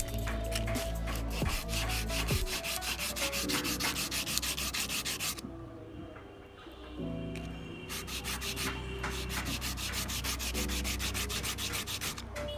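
Rapid rubbing or sanding strokes on a part, many per second, over a steady low hum, pausing briefly about halfway through.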